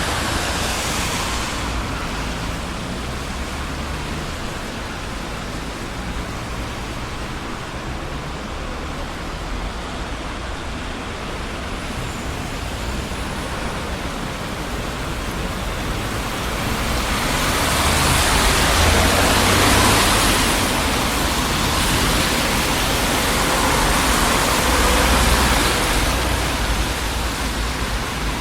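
Busy city street traffic: a steady rush of tyres and engines, swelling louder as vehicles pass, most strongly about two-thirds of the way in and again near the end.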